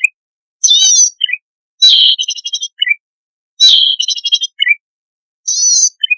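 Cisticola song used as a bird-lure recording: four high, buzzy, wavering phrases, two of them running into a rapid train of ticks, with short silences between.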